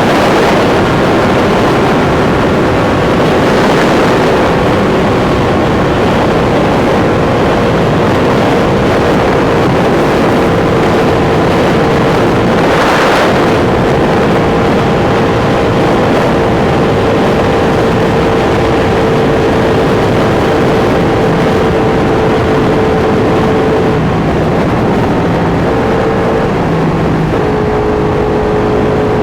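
Sport motorcycle engine heard onboard at highway speed, its note held steady under a constant rush of riding noise, then dropping and stepping through a few short changes of pitch near the end.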